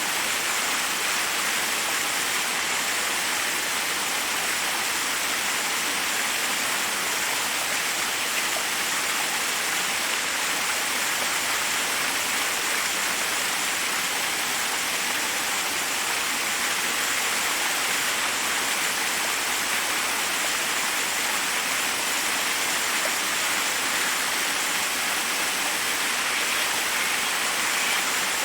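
Forest waterfall: water cascading over rocks in a steady, unbroken rush, bright and hissy with little low rumble.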